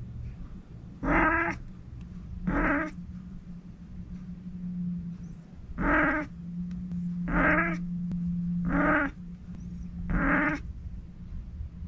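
A domestic cat giving six short, pitched calls, each about half a second long and spaced a second or more apart, over a steady low hum.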